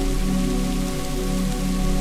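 Steady rain falling, a dense even hiss with faint drops ticking through it. A soft sustained musical chord is held underneath.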